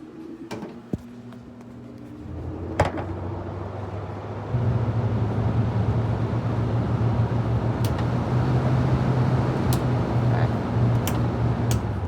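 Haier 5,200 BTU window air conditioner switched on at low fan: a steady motor hum starts about two seconds in, with a click a moment later. The hum steps up in loudness about four and a half seconds in and holds, then fades near the end.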